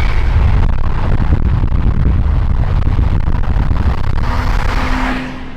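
Car on the move: a steady low rumble of engine and road noise with a rushing haze over it, no clear revving, dropping away near the end.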